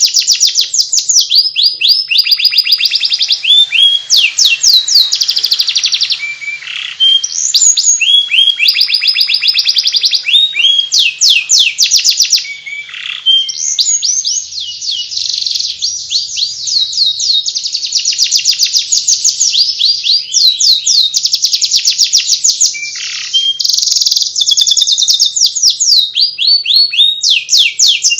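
Domestic canary singing a continuous, rapid twittering chatter (Indonesian 'ngeriwik'): fast repeated trills and quick sweeping notes with only brief pauses.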